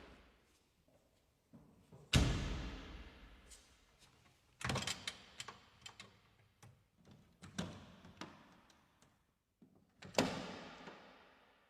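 Maserati MC12's V12 engine blipped repeatedly, each rev rising sharply and falling away over a second or so, with a quick cluster of shorter blips in the middle.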